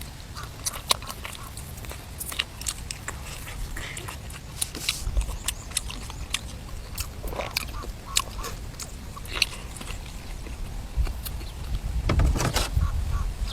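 A person biting and chewing food close to the microphone, with many short, irregular wet mouth clicks and crunches.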